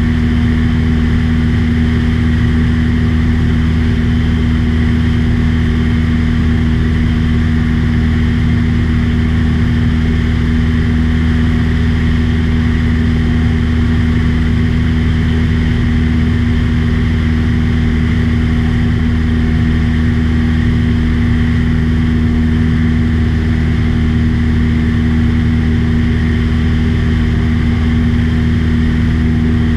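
Light aircraft's piston engine and propeller running steadily in cruise flight, at an even, unchanging pitch.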